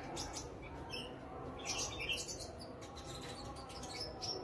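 Sunbird chirping: short, high-pitched notes in quick little clusters, about one to two seconds in and again near the end.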